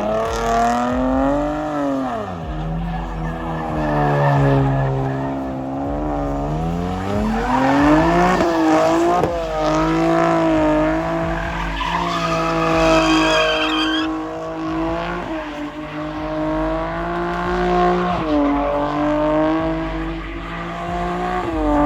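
A car engine revved hard and held at high revs, its pitch climbing and dropping several times, with tyres squealing and skidding as the car does burnouts or donuts.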